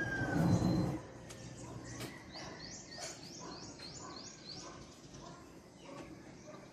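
A rooster's crow trailing off in the first second, then a bird calling a quick run of about nine high, downward-sweeping chirps, roughly four a second, with fainter bird chirps around it.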